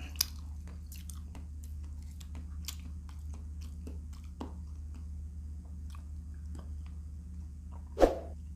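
Close-up chewing of a mouthful of shrimp: irregular soft wet clicks and small crunches over a steady low hum, with one louder mouth sound near the end.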